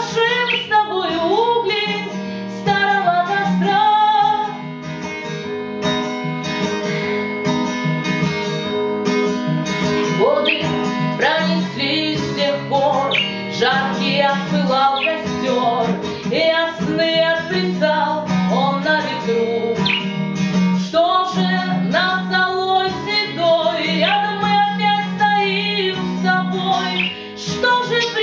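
Acoustic guitar strummed and picked, with a woman's voice singing the melody along with it.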